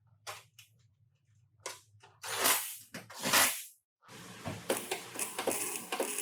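Body-shop work noise: a few short hisses over a faint low hum, two longer, louder hisses about halfway in, then steady scraping with quick knocks.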